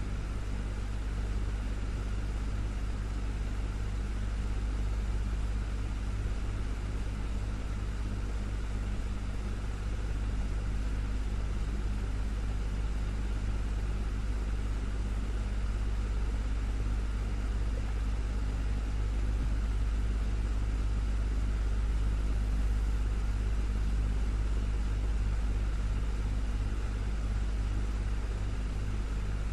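Desktop electric fan running steadily: a constant low motor hum with an even whoosh of moving air, never changing in level or pitch.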